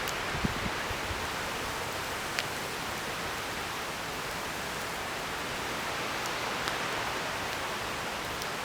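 Campfire burning: a steady hiss with a few sharp crackles and pops, a small cluster about half a second in and single pops later.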